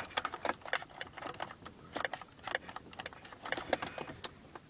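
Scattered light clicks and taps at an irregular pace, several a second.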